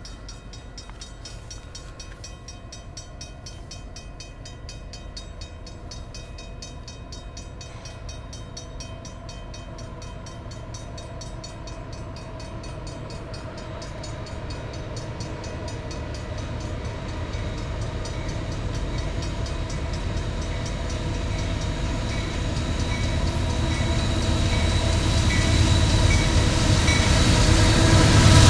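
Diesel-hauled freight train approaching a level crossing, its rumble growing steadily louder as the locomotives near. A crossing warning bell rings in a steady rhythm.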